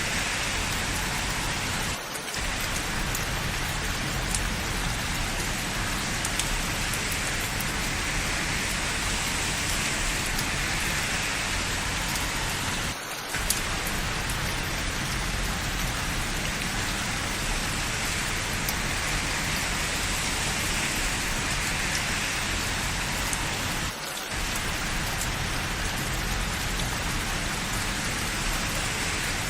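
Steady rain falling, a constant hiss with scattered faint drip ticks. The level dips briefly three times, evenly about eleven seconds apart.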